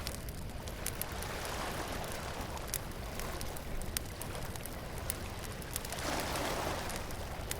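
Beach bonfire crackling with scattered sharp pops over the wash of surf; a wave swells in about a second and a half in and another near the end.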